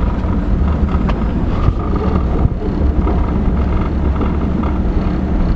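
Vehicle engine running steadily while riding along the street.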